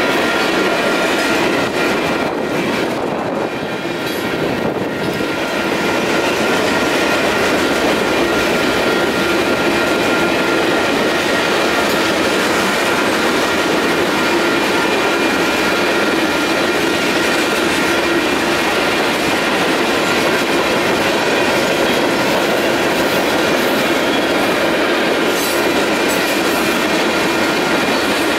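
Freight train cars rolling steadily past: a continuous rumble and clatter of steel wheels on the rails, with thin steady high-pitched tones over it. It eases slightly for a couple of seconds early on, then holds steady.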